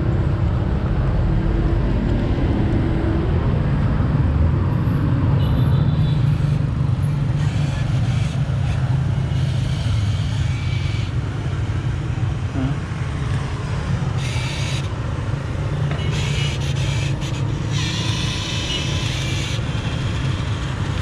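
Steady low rumble of road traffic and motor vehicles, with a few short bursts of hiss in the second half.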